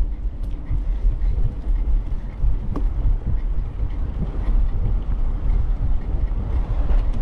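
Riding noise from a bicycle on a trail, picked up by a camera mounted on the moving bike: a loud, uneven low rumble of wind on the microphone and tyres on the path.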